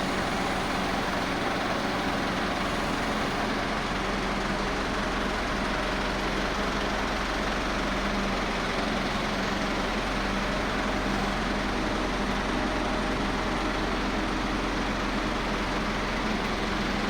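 An engine running steadily at idle, with a constant low hum and no change in level.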